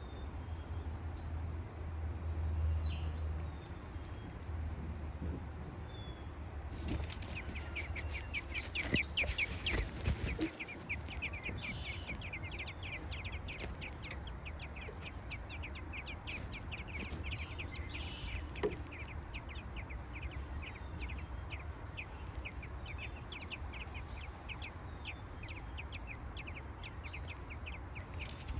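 Nestling birds begging in the nest with rapid, repeated high chirps that break out about a third of the way in and keep going, typical of chicks being fed by the parent. A steady low hum lies underneath.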